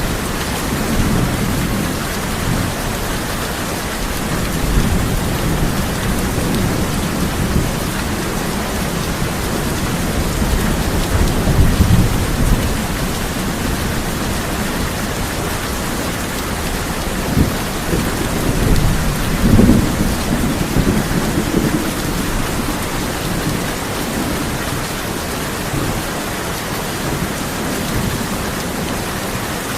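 Steady heavy rain drumming on a tin roof, with low rolling thunder that swells twice, about a third of the way in and again about two-thirds of the way in.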